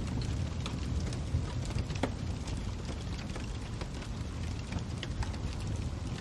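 Fire crackling: a steady low rumble of burning with scattered sharp pops and snaps, a few per second.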